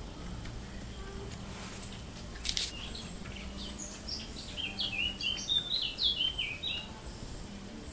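A songbird singing: several quick runs of short chirping notes, each run stepping down in pitch, in the second half. A brief scratchy rustle comes about two and a half seconds in.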